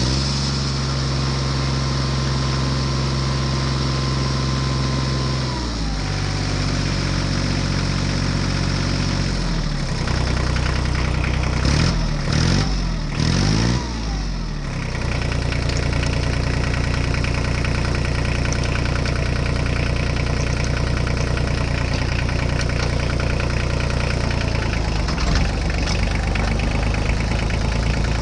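Tractor engine sound idling steadily. It drops in pitch twice, revs up and down briefly about halfway through, then settles into a steady idle.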